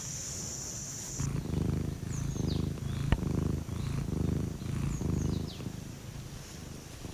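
Domestic cat purring close to the microphone, in a rhythmic rise and fall about every 0.7 s that grows louder about a second in. There is a single sharp click near the middle.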